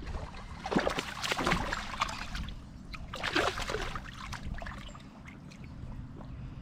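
Water splashing and trickling in two bursts, the first about a second in and the second around three seconds in, with quieter lapping between them.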